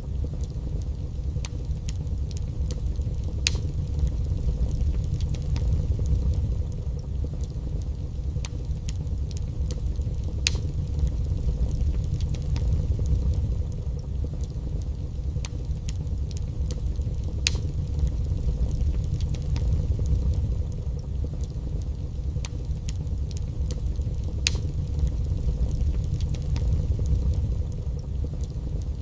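Wood fire burning in a fireplace: a steady low rumble that swells and eases, with scattered small crackles and a louder pop about every seven seconds.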